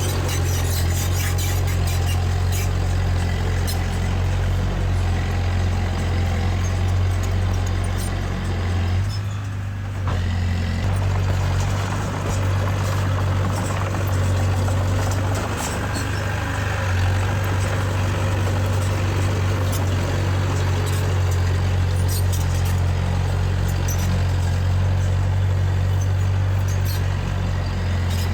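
Diesel engine of heavy earthmoving machinery running steadily with a deep hum, with scattered sharp metallic clanks over it; the sound drops briefly about nine seconds in.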